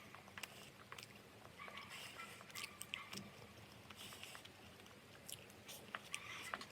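Faint, close chewing: irregular wet smacks and clicks, several a second, of food being eaten.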